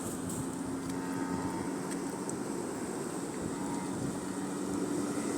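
Steady seaside background of surf and wind, with a faint, steady engine hum underneath.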